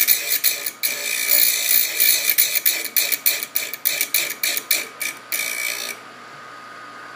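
Piston ring end being ground on a ring-gap filer in quick repeated passes, a harsh scraping that stops about six seconds in, leaving a faint steady hum. This is the file-fitting of the ring's end gap.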